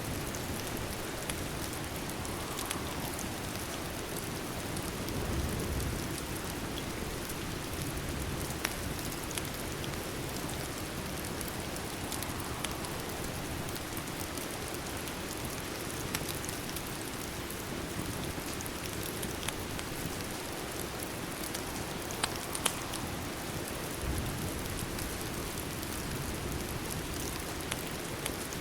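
Steady rain falling, an even hiss, with scattered sharp pops and ticks over it, as from a crackling fireplace.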